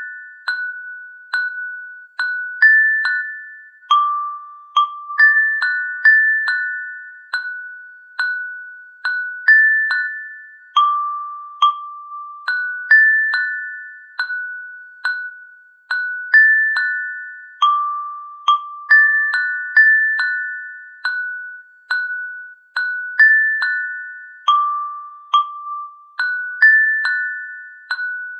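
Slow glockenspiel tune: single struck bell-like notes on a few high pitches, about two a second, each ringing and fading before the next.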